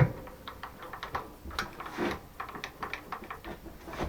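Irregular light clicks and knocks of metal tools and parts being handled while setting up on a lathe, with a louder knock at the start and another about two seconds in.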